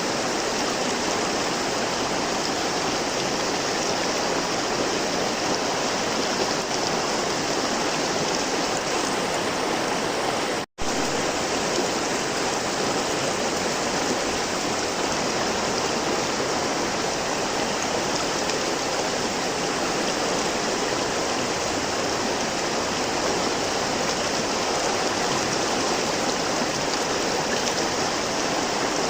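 River water flowing steadily, an even rushing noise, with a split-second gap about ten seconds in.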